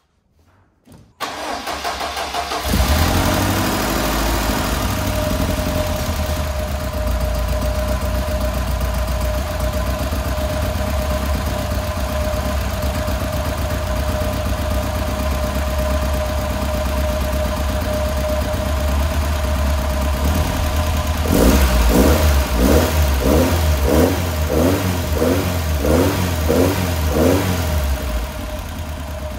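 Tiger Cat E1's twin-Weber Ford Pinto four-cylinder engine cranked on the starter about a second in and catching a second and a half later, then idling steadily. Near the end the throttle is blipped about eight times in quick succession, the revs rising and falling each time, before it settles back to idle.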